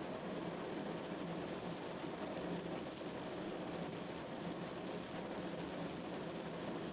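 Steady rain falling on a car, an even patter of drops on the body with a low drumming underneath.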